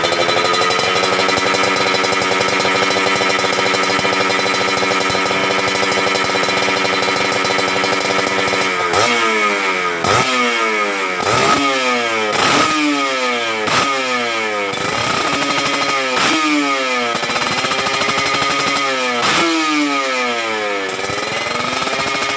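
Kawasaki Ninja RR two-stroke single engine breathing through an aftermarket Aitech silencer, running steadily for the first nine seconds, then revved in about ten quick throttle blips, each rev falling back between blips.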